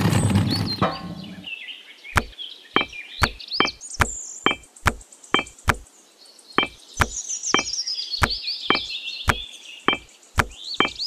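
Miniature clay bricks being set one by one into a small metal toy wheelbarrow: a series of sharp clacks, roughly two a second with a short pause midway, over birds chirping. A rough rushing noise fills the first second and a half.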